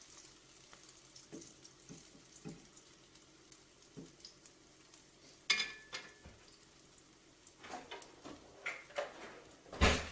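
Potato latke frying in a pan of hot oil, a faint steady sizzle, under kitchen clatter from a spatula and dishes: a few soft knocks early, a sharp ringing clink about halfway through, more clatter later and the loudest knock just before the end.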